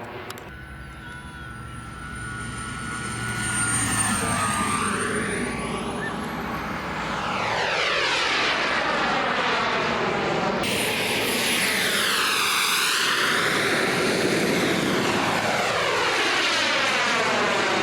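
RC model turbine jet flying past, a high-pitched turbine whine that drops in pitch as it goes by. It grows louder about four seconds in and stays loud through repeated passes.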